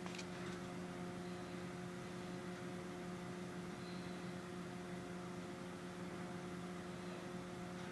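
Steady low electrical hum with a few even overtones over a faint hiss, unchanging throughout.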